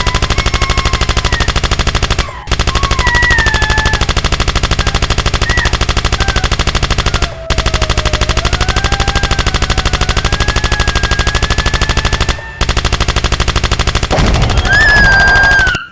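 Rapid, continuous automatic gunfire with brief breaks about every five seconds, over a wavering siren-like tone. A louder, noisier stretch comes near the end, and it cuts off suddenly.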